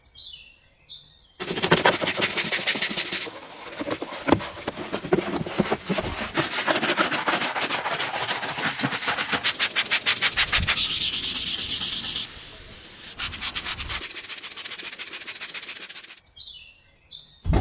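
Fast, rhythmic scrubbing strokes rubbing over the car's surface during a wash. The scrubbing stops and starts abruptly several times, with faint high squeaks in the quieter gaps.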